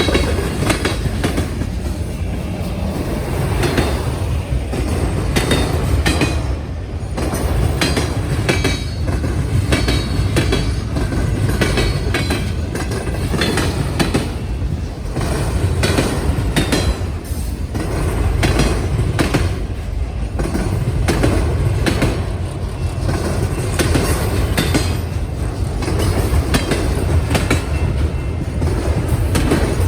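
Train cars rolling steadily past with a continuous low rumble and repeated sharp clacks as the wheels pound over a railway diamond crossing and rail joints. Short, high wheel squeals come and go in the middle.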